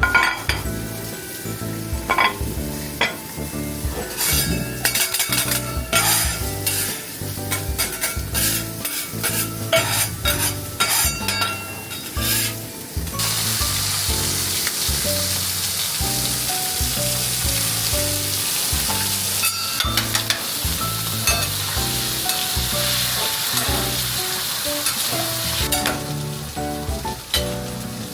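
Food frying in a pan: utensil clicks and scrapes of stirring, then a steady sizzle from about halfway that dies down near the end.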